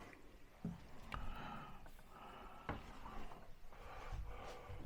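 Faint clicks and light knocks of hand work on a kitchen wall cabinet's door hinge as it is being adjusted, with a few sharp taps spread through.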